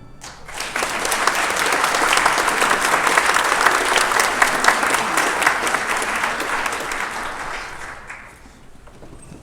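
Audience applauding, swelling in the first second and dying away about eight seconds in.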